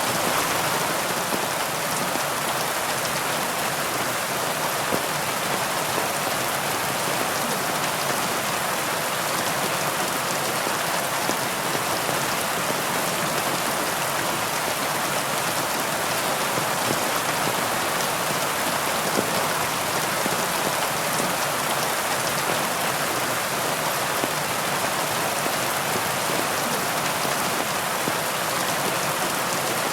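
Heavy rain falling steadily, a dense even hiss of drops with many small pattering hits and no thunder.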